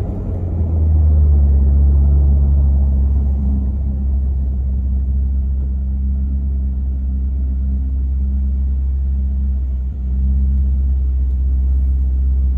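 Maserati Quattroporte Sport GT's V8 running steadily at low revs after the revs have come down: a deep, even drone with a brief dip about ten seconds in.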